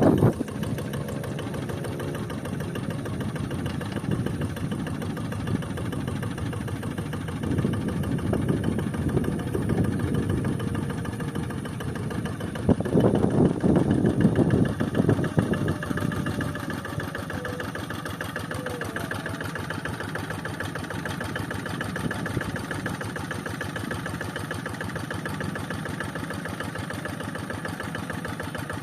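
Quick Zeva G3000 tractor's Kubota diesel engine running steadily while it levels a paddy field. It gets louder twice, for a few seconds each time, about a quarter and half way through.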